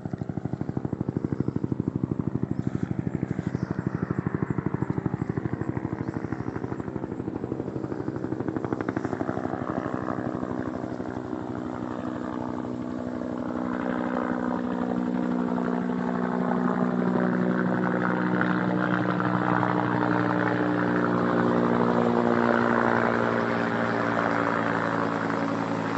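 Firefighting helicopter coming in, its rotor blades beating in a rapid steady thud with an engine whine over it. The engine tones slide lower partway through, and the sound grows louder again in the second half.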